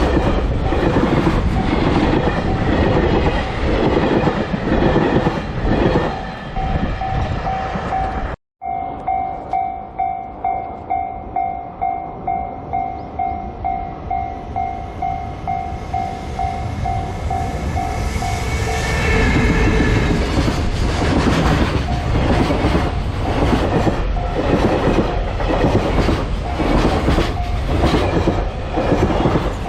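A train passing over jointed track, its wheels clicking in a steady rhythm. The Japanese level-crossing alarm then rings in even electronic dings about twice a second, broken by a brief dropout about a third of the way in. The alarm stops about two-thirds through as another train rolls past, clicking over the rail joints.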